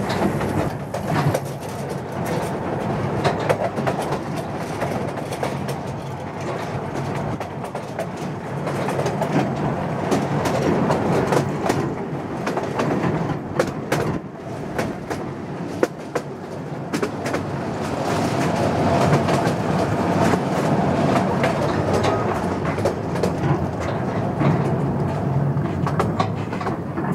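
Narrow-gauge mountain railway train running steadily, heard from aboard an open carriage: a continuous rumble and rattle with sharp clicks of the wheels over the rail joints. A thin whine joins in for a few seconds about two-thirds of the way through.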